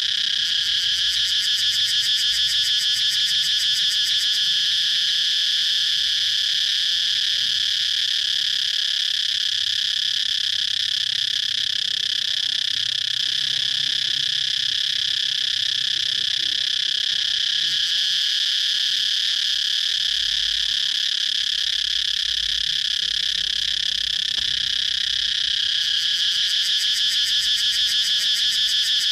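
Cicadas calling in a loud, steady, high buzzing drone, with a fast pulsing in the first few seconds and again near the end.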